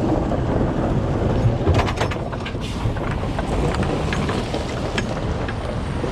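Heavy diesel truck engine running steadily, with a few short clicks about two seconds in.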